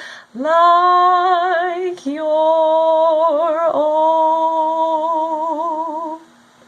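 A singer holding three long notes with vibrato at the end of the song, the last held for about two seconds before it stops about six seconds in, leaving only faint hiss.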